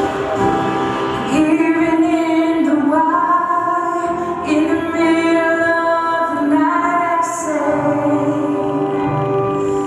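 A female voice singing a slow melody, holding each note for about a second, with music behind it.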